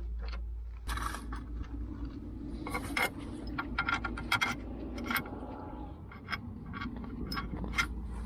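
Metal scraping with many sharp clicks and clinks: a bolt and steel suspension parts being handled while the lower control arm's mounting holes are lined up.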